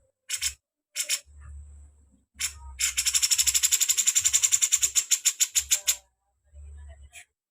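A bird gives two short, sharp high calls, then a fast, even rattling trill of about ten notes a second that lasts roughly three seconds and stops abruptly.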